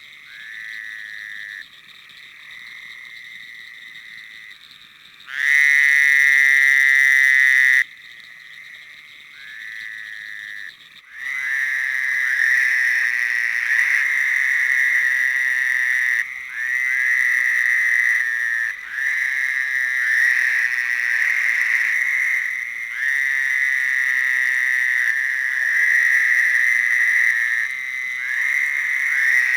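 Frogs calling in spring: a long, loud trill a few seconds in. Then, from about a third of the way in, a chorus of overlapping trills, each lasting a second or two.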